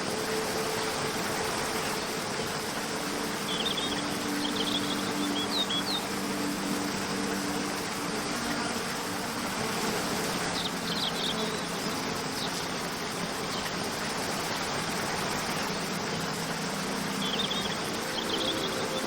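Waterfall rushing steadily under soft held music tones, with three short bursts of high chirping about every six to seven seconds.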